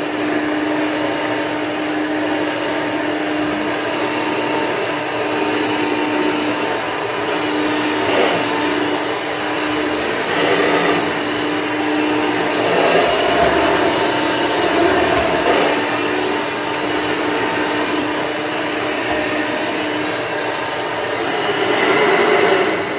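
Hoover Elite II upright vacuum cleaner running steadily, a constant motor hum under a broad rush of airflow, swelling in level a few times.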